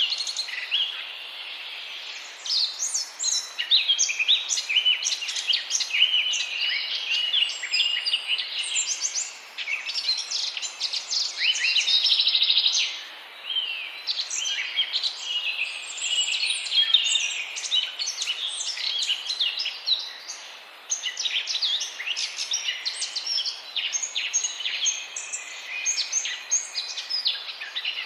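A flock of birds calling continuously, many short chirps overlapping into a busy chorus.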